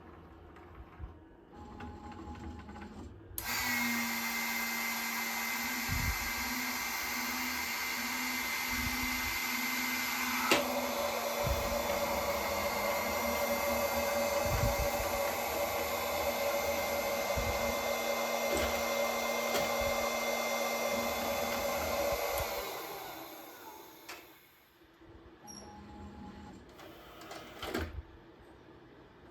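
A robot's suction motor running: it starts abruptly a few seconds in, runs with a steady whine, shifts in tone with a sharp click partway through, and winds down well before the end.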